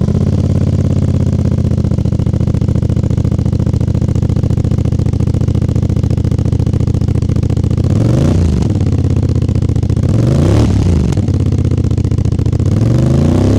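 CFMOTO 450 MT's 449 cc liquid-cooled parallel-twin engine with a 270° crankshaft, heard through its exhaust. It idles steadily, then is revved in three short throttle blips in the second half, each rising and falling back to idle.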